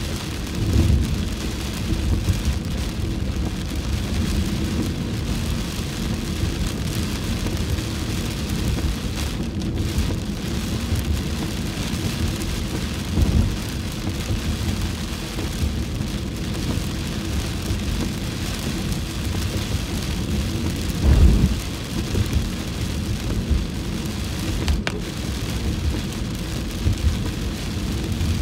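Heavy rain falling on a car's windshield, heard from inside the moving car as a steady hiss over a low rumble. A few brief low thumps stand out, about a second in, near the middle, and about three quarters of the way through.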